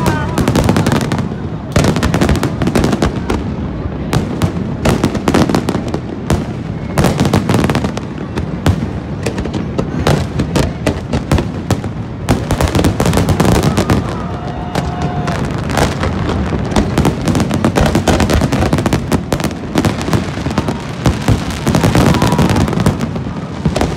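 Aerial fireworks bursting in a dense, continuous barrage: many bangs and crackles in rapid succession, with no let-up.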